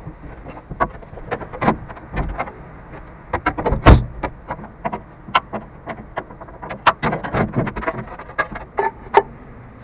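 Irregular metallic clanks and knocks of hand tools and metal parts being handled, with one heavier thud about four seconds in.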